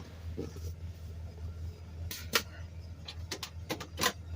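A few sharp clicks and light knocks, about two seconds in and again near the end, from working the dashboard cigarette lighter of a 1975 Buick LeSabre, over the steady low hum of the car's idling engine.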